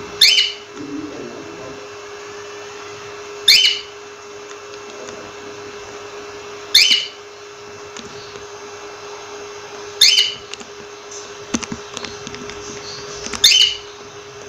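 Cockatiel giving a short, loud call five times, about once every three seconds, with a few softer chirps between the last calls, over a steady low hum.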